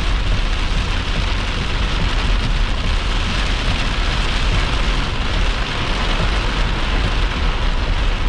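Heavy wind-driven rain pounding a vehicle as a rear-flank downdraft hits. A steady, dense roar of rain with a strong low rumble under it.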